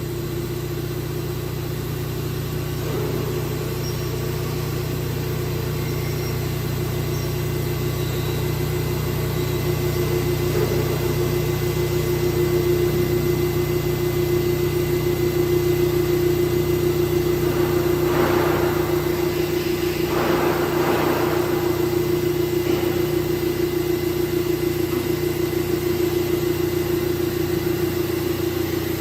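VMC1160 vertical machining centre running with a steady whine and a low hum. Two short bursts of noise come about two-thirds of the way through.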